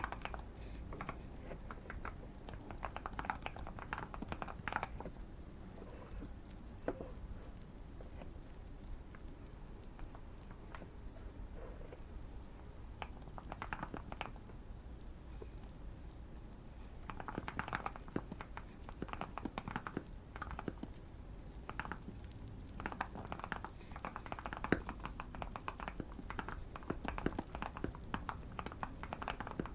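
Typing on a modded Keychron Q1 mechanical keyboard: bursts of muted, thocky key presses broken by short pauses, over a faint fireplace crackle.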